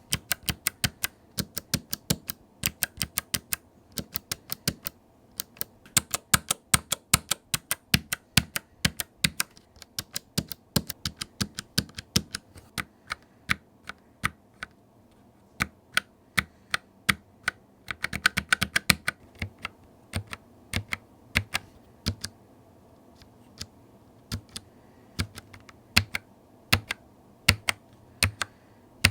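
Typing on a Logitech MX Mechanical keyboard with clicky Blue switches: crisp, separate key clicks in uneven runs, with a quick flurry a little past halfway and brief pauses between runs.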